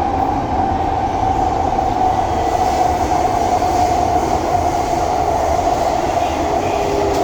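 Subway train heard from inside the car while running: a steady rumble of wheels on track with a clear motor whine that slowly falls in pitch, and a second, lower whine coming in near the end.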